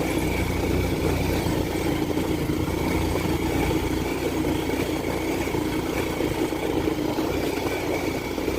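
Bajaj Pulsar 150 motorcycle's single-cylinder engine running steadily while being ridden.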